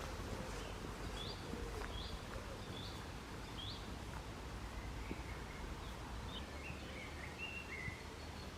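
Small birds calling in woodland: a short high chirp repeated about once a second, then a quicker run of varied, slightly lower notes in the second half, over a faint steady low background rumble.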